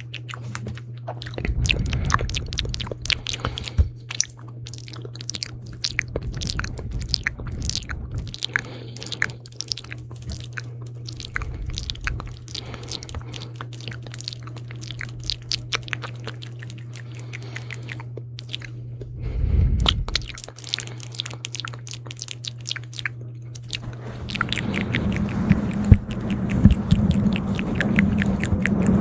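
Close-miked ASMR mouth sounds: rapid wet clicks and smacks of lips and tongue, over a steady low hum. About 24 seconds in, the sounds turn denser and louder.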